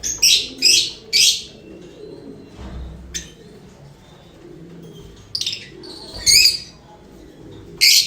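Lovebirds giving short, high-pitched chirping calls: three in quick succession, then a few more after a pause of about four seconds.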